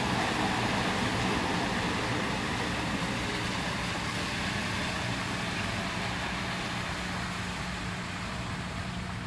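Vehicle noise on a flooded street: a steady rushing sound that slowly fades, with a faint low hum underneath.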